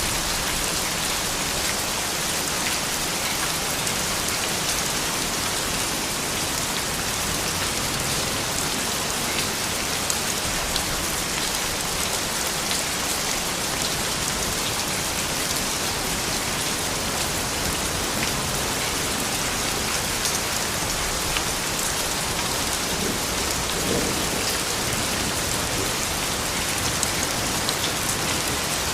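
Steady rain falling, an even hiss of many drops with fine pattering ticks throughout.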